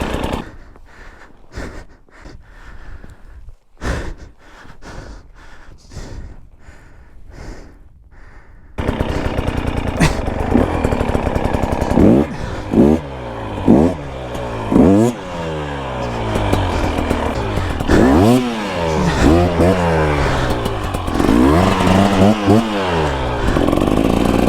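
Dirt bike engine, quieter at first, then loud from about a third of the way in, revving up and down again and again as the throttle is worked hard, with a few sharp knocks along the way.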